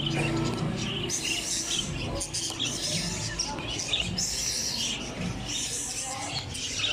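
Many small caged birds chirping and twittering together in a dense, overlapping chorus of short high calls.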